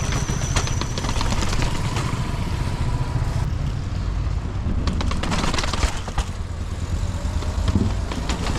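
Mountain bike riding fast downhill: steady wind rumble on the microphone, with the bike rattling and knocking over rough ground.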